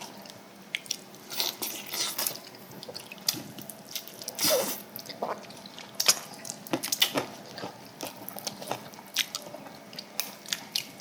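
Close-up eating of samgyetang (chicken in ginseng soup): wet chewing and biting with many short clicks scattered throughout, the loudest a wet smear about four and a half seconds in.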